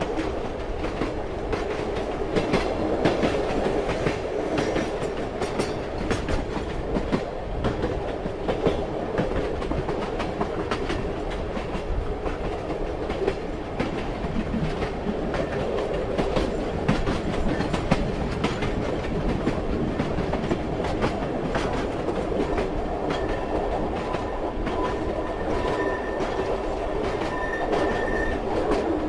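Train wheels clattering steadily over the rail joints as the train runs, over a continuous rumble. A faint high whine joins in during the last few seconds.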